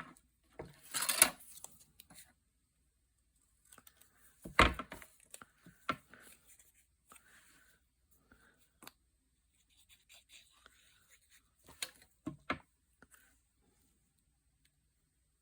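Paper being handled for a craft project, with several short tearing and rustling bursts: a long one about a second in, others near five and six seconds, and two quick ones about twelve seconds in.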